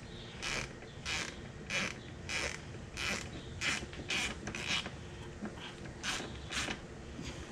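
Hand ratchet wrench being worked back and forth: a regular series of short, raspy clicking strokes a little under two a second, dying away about five seconds in, with two more near the end.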